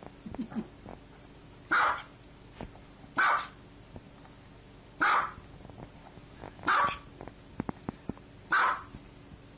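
Small white dog barking: five single, sharp, high barks spaced evenly about one every one and a half to two seconds.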